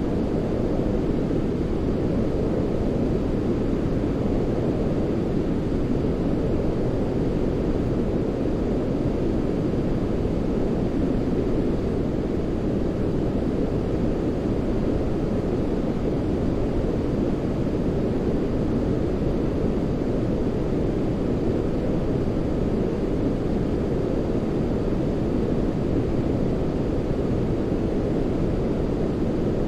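Steady baby-sleep noise: an even, deep rushing hiss, heavier in the low end than high, with no change or break.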